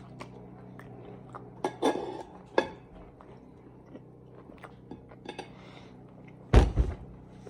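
A person chewing a mouthful of steak close to the microphone, with scattered short wet mouth clicks. A loud, deep thump comes near the end.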